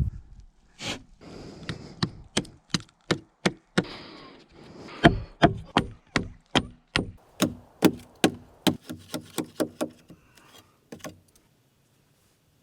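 Wood being chopped with a blade: a quick run of sharp strikes, about two to three a second, that stops about eleven seconds in.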